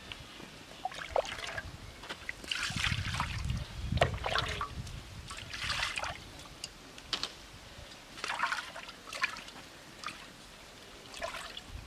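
Liquid being poured or ladled into a cooking pot in a series of short, irregular splashes and trickles, fullest a few seconds in.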